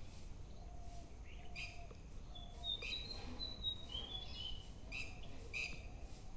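Birds calling: short, harsh chirps repeated about once a second, with a few thin, high whistled notes in the middle, over a faint steady low rumble.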